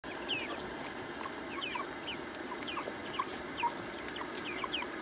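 Young chickens, about five and a half weeks old, peeping: many short, high, falling chirps in quick, irregular succession over a steady low hum.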